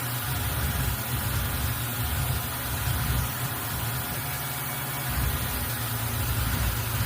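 CNC milling machine running with a steady low hum.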